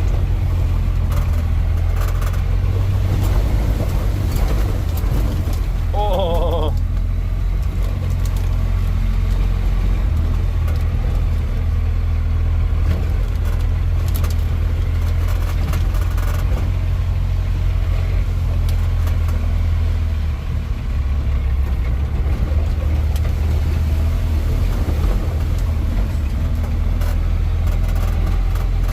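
Square-body pickup truck's engine running with a steady low drone while it is driven over a rough off-road trail, with scattered rattles and knocks from the truck bouncing. The engine eases off briefly about two-thirds of the way through.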